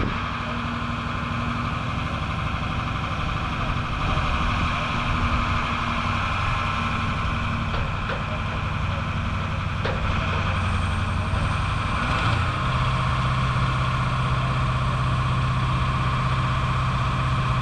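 Crane's engine running steadily, its pitch stepping up about twelve seconds in as the revs are raised and held.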